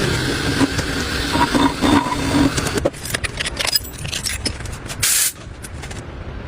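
Motorcycle engine running steadily, then going quiet about three seconds in. Metallic clicks and jangles follow, with a brief loud rush of noise near the end.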